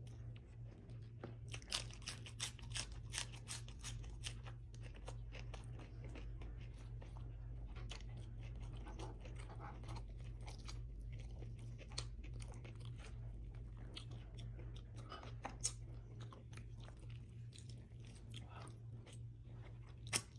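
Close-miked eating: crisp crunching of a fresh romaine lettuce leaf, dense in the first few seconds, then softer wet chewing of braised beef rib meat with a few sharp clicks.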